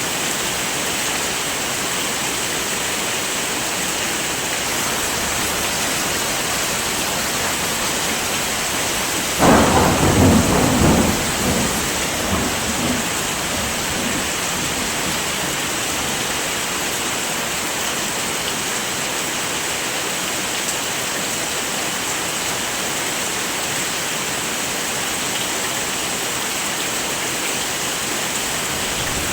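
Heavy rain falling steadily, a dense even hiss, with a sudden crack of thunder about a third of the way in that rumbles low for two or three seconds before fading back under the rain.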